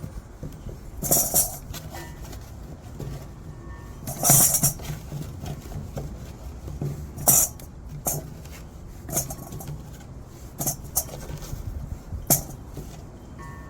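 Harvested red potatoes being handled and dropped into a container: a string of irregular knocks, clinks and rustles, loudest about four and seven seconds in.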